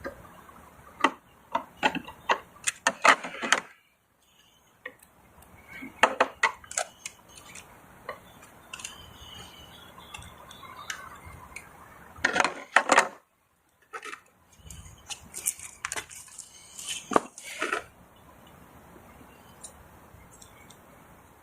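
Clusters of sharp clicks and knocks from plastic plumbing fittings and tools being handled and fitted together, in several bursts with short gaps between them.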